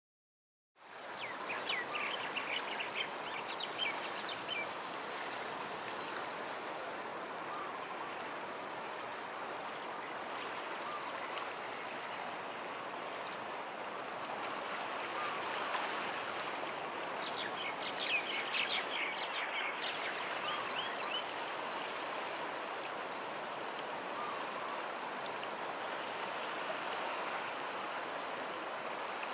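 Steady rushing outdoor background that sets in just under a second in, with small birds chirping in quick runs of short, high notes, once about two seconds in and again around eighteen to twenty seconds in.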